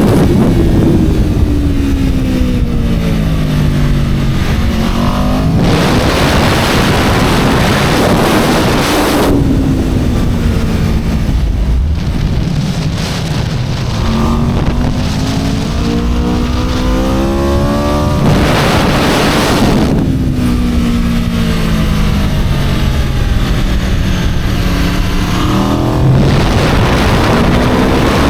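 Aprilia RSV4 superbike's V4 engine at racing speed: the engine note falls away under braking, climbs again as it accelerates through the gears, then falls once more. Bursts of wind rush over the microphone several times.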